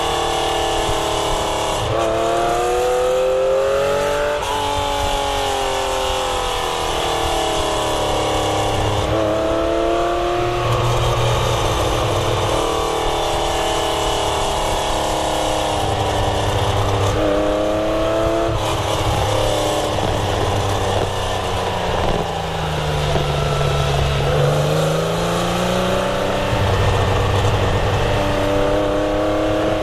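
Air-cooled flat-six engine of a classic Porsche 911 being driven hard. It revs up through the gears again and again, the pitch climbing and then dropping back at each shift, over a steady hiss of road noise.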